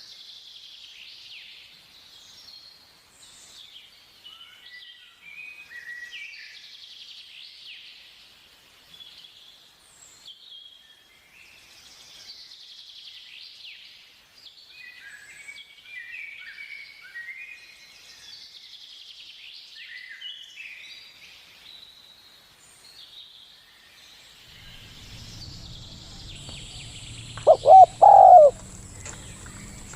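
Small birds chirping with many short high notes throughout, then near the end a zebra dove coos loudly twice. A low hum comes in shortly before the coos.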